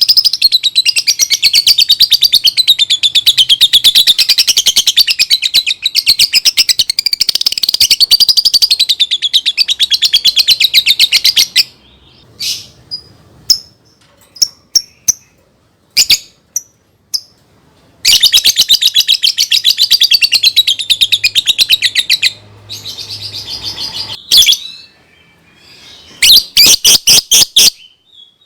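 Lovebird chattering: two long, very fast trills with a wavering pitch, the first lasting about eleven seconds and the second about four. Short single chirps fall between them, and a quick run of sharp chirps comes near the end.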